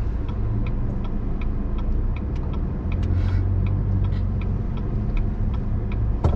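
Steady engine and road rumble heard inside a moving car, with the turn-signal indicator ticking evenly about two to three times a second. A single sharp knock near the end.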